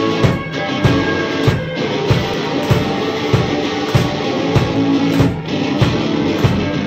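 Indie rock band playing live: drum kit with a steady kick-and-snare beat under electric guitars and bass, an instrumental intro with no singing yet.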